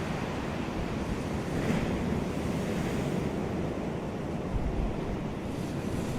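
Ocean waves washing onto a beach in a steady surf wash, with a low rumble of wind on the microphone.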